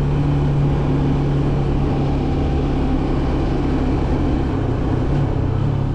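Motorcycle engine running steadily under load while climbing, with a constant low drone over wind and road noise. The engine note changes about five seconds in, as the bike slows ahead of a downshift from 4th to 3rd gear.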